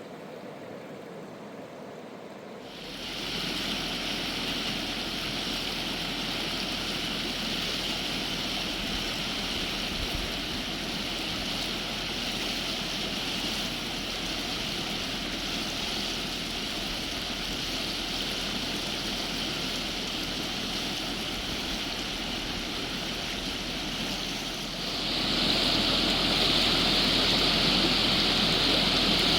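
Rushing river water, a steady hiss that gets suddenly louder about three seconds in and again near the end.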